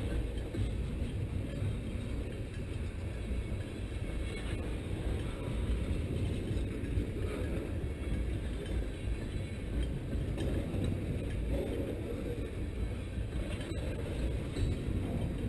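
Railroad tank cars rolling past, a steady low rumble of wheels on rail, with one sharp click near the end.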